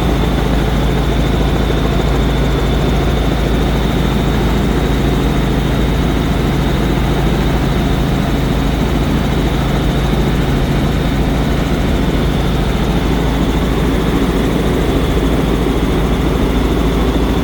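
Helicopter running steadily in flight: a constant deep rotor and engine rumble with a steady high whine above it.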